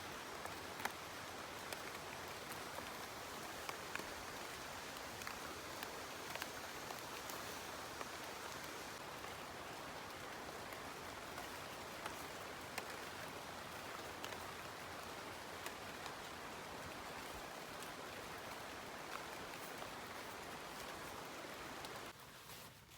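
Steady rain falling, with scattered drops ticking sharply against it; it breaks off abruptly near the end.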